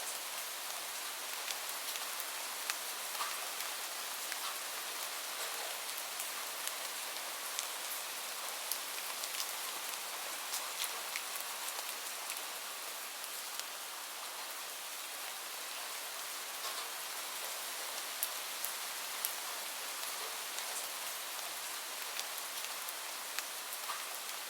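Steady rain falling, a constant hiss with many separate drops landing sharply on a surface.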